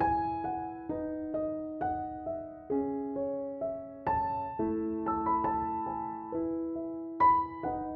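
Background piano music: a slow, gentle melody of single struck notes over held chords.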